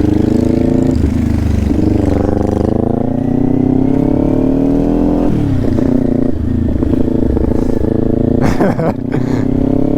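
Motorcycle engine running under load, its pitch climbing slowly for about five seconds, then dropping briefly and pulling on again.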